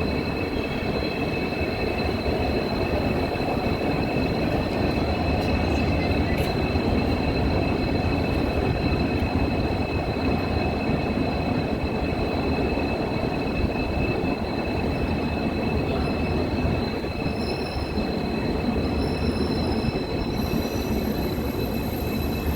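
Passenger train running on the rails: a steady rumble of wheels and carriages with a continuous high-pitched wheel squeal held throughout.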